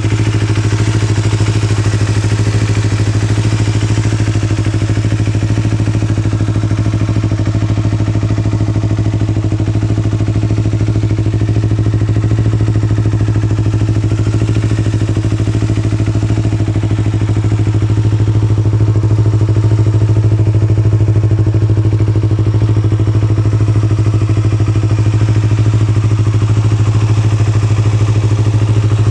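2018 Yamaha YZF-R25's 249 cc parallel-twin engine idling steadily through an aftermarket Akrapovič muffler, growing slightly louder about two thirds of the way through.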